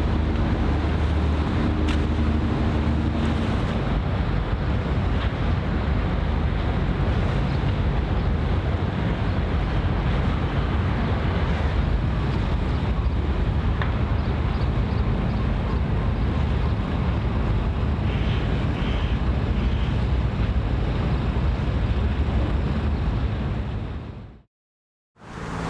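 Wind buffeting the microphone over a steady wash of water, with a ship's low engine hum in the first few seconds. The sound fades out to silence near the end.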